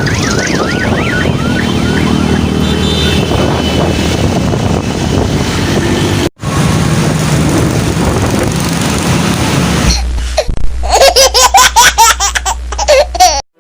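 Steady traffic noise. Near the end, a burst of a child's rapid laughter.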